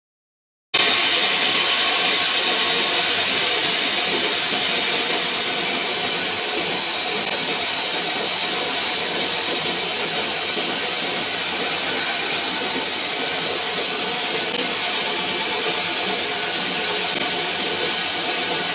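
Sawmill saw running steadily, a loud, even rushing noise that starts abruptly about a second in after silence.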